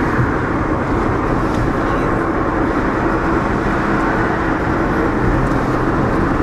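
Steady road and engine noise inside a moving car's cabin, an even rumble without changes.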